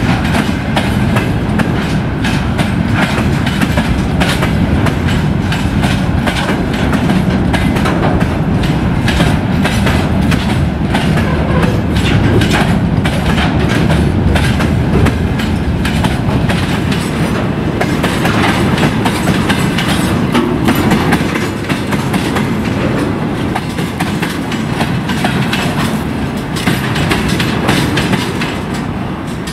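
Freight train's gondola wagons and tank cars rolling past, wheels clacking over the rail joints over a steady rumble; a little quieter in the last several seconds.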